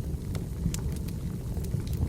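Burning firewood crackling: irregular sharp snaps, several in two seconds, over a steady low rumble.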